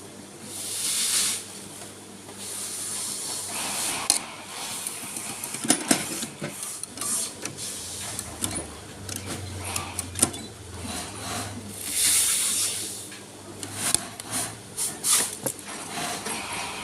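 Irregular clicks and rattles of parts being handled at a Brother sewing machine, with a few short rushes of hiss near the start and about twelve seconds in.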